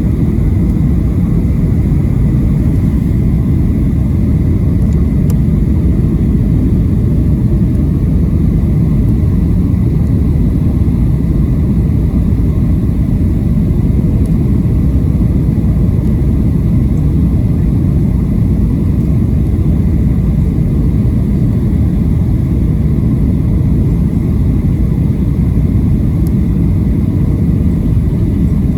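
Steady roar of a Boeing 737-700's engines and airflow, heard inside the cabin on final approach.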